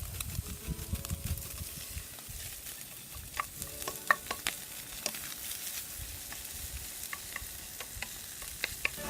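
Fried rice sizzling in a hot pan over a wood fire, stirred with a utensil that scrapes the pan and clinks sharply against the metal several times.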